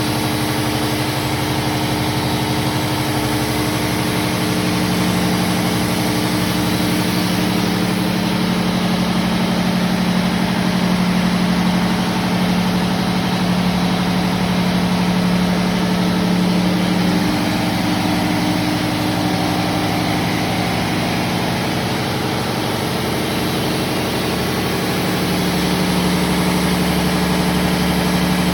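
Engine-room machinery running steadily: a loud, constant engine drone with steady humming tones that shift slightly partway through.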